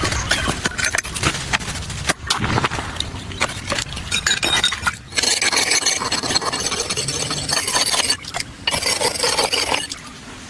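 Rough scraping and rubbing with many small knocks, typical of hand work on wood or earth. It is broken by a few short gaps, and quietens near the end.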